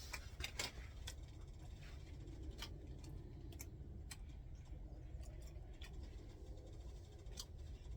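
Irregular light clicks and taps, a dozen or so spread unevenly, over a low steady rumble: small sounds of someone eating a meal.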